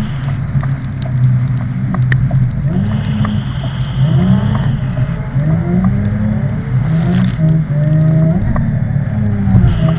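Car engine revving hard and easing off over and over as the car is drifted, its pitch rising and falling about once a second.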